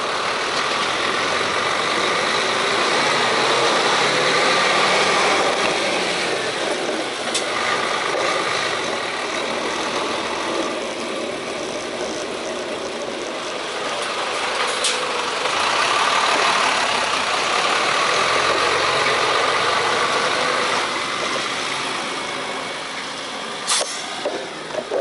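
Road traffic around a bicycle: motor vehicles and engines running on the street, swelling twice as vehicles pass close, with a few short sharp ticks.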